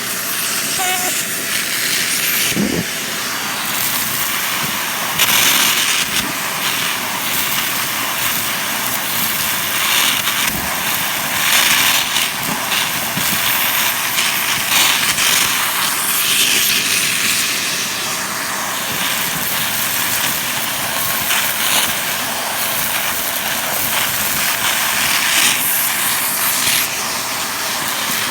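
Upright vacuum cleaner running steadily with a hissing rush of air, with brief louder rattling surges every few seconds as it sucks up crunchy debris.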